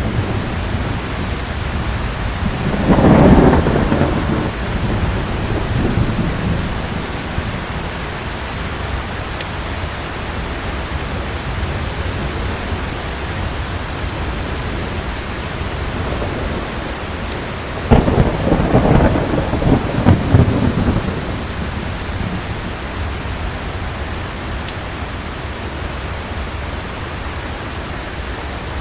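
Heavy rain falling steadily, with rolling thunder: a rumble about three seconds in and a longer, louder one about two-thirds of the way through.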